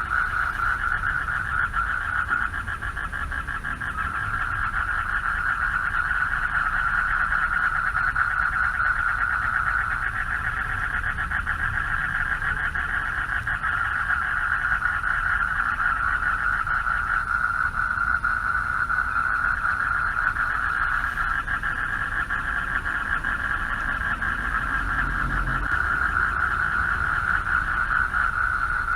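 A chorus of male frogs calling for mates from a pond: a dense, unbroken trilling that swells and eases slightly, over a low steady rumble.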